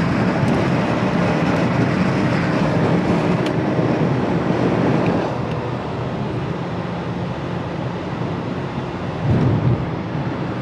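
Car driving on the road, heard from inside: a steady rumble of engine, tyre and wind noise. It eases a little about five seconds in and swells briefly near the end.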